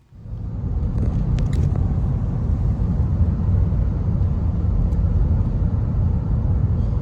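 Steady low rumble of a car driving at highway speed, heard from inside: road and wind noise.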